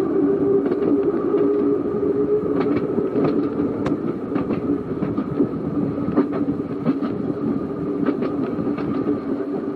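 Seaton Tramway narrow-gauge electric tram running along the track. A steady motor hum with a fainter higher whine is broken by irregular clicks and knocks from the wheels on the rails.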